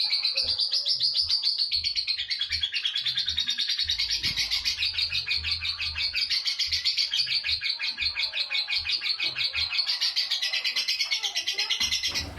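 Lovebird giving a long, unbroken ngekek: a fast, high-pitched, rattling chatter of rapid repeated notes, many to the second, held without a pause.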